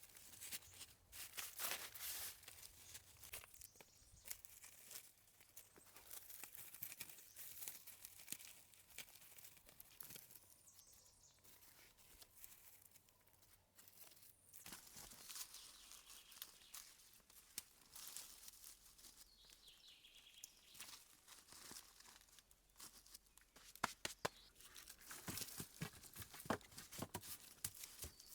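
Faint rustling and crackling: many small irregular clicks and crinkles, busier near the end.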